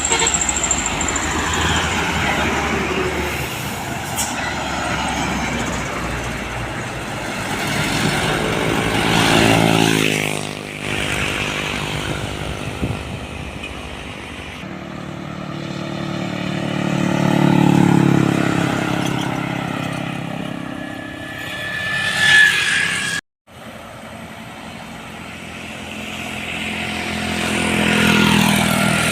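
Heavy trucks and other vehicles driving past one after another, their diesel engines swelling as each approaches and fading away, with the pitch sliding as they pass. A brief squeal sounds just before the sound cuts out completely for a moment about 23 seconds in.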